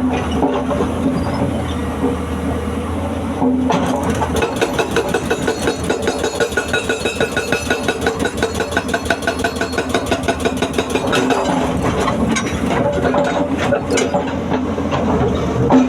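Excavator's diesel engine running; about three and a half seconds in it picks up into a louder, fast, regular clatter, which eases off again in the last few seconds.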